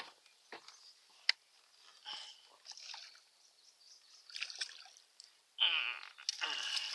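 Water splashing and dripping with scattered clicks and rustles as a white bass is netted beside a kayak, with a louder rough rustling burst near the end.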